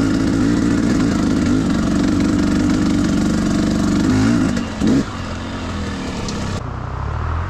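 Enduro dirt-bike engine running hard at high revs, with a brief drop and a sharp blip about five seconds in. Near the end it turns duller and quieter.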